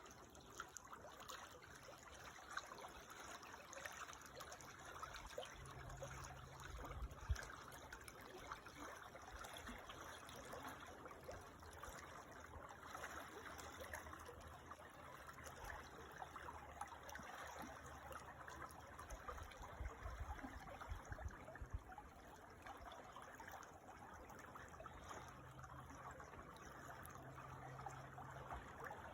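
A creek trickling steadily and faintly, with a low rumble coming and going underneath.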